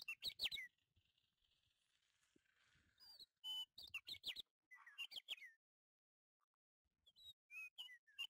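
Small bird chirping in several short bursts of quick, sliding high chirps, with a faint rustle between the first two bursts.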